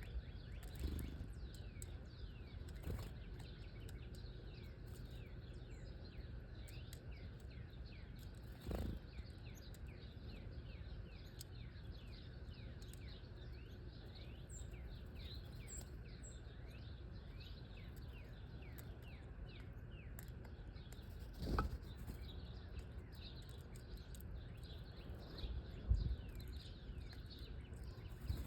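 Many small birds chirping at once, short falling calls overlapping all the way through, over a low steady rumble, with a few dull thumps.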